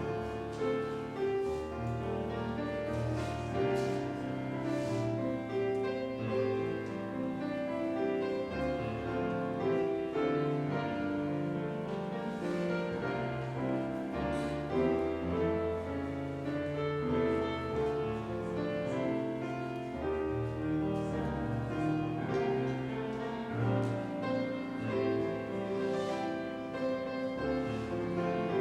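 Instrumental classical-style music: piano playing with a low bowed string instrument, likely a cello.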